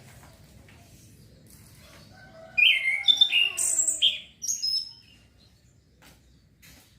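A male orange-headed thrush that is still learning its song gives a short, loud run of varied whistled notes about halfway through, with faint clicks before and after.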